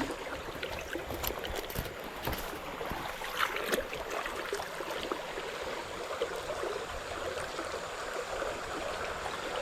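Shallow creek water running steadily over rocks, with a few faint knocks.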